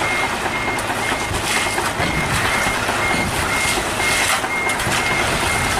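Reversing alarm of a construction vehicle beeping steadily, about two high beeps a second, over the continuous noise of diesel machinery at work.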